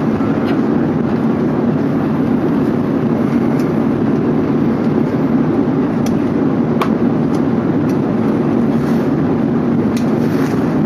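Steady engine and air noise of an Airbus A380 in flight, heard inside the passenger cabin, with a couple of faint clicks past the middle and near the end.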